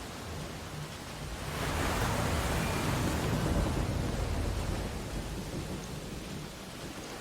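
Ocean surf on a beach: a wave surges in about a second and a half in, a rushing swell with a deep rumble, then washes back down to a steady hiss of water.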